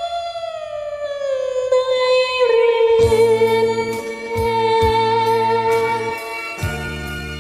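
Karaoke singing: a singer holds one long note that slides down and then stays steady over a backing track. About three seconds in, the accompaniment fills out with a low bass beat.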